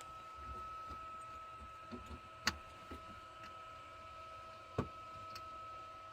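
A faint steady high-pitched whine with a few sharp clicks and knocks, two louder ones about two seconds apart in the middle, from parts and tools being handled while working on the truck's cab heater.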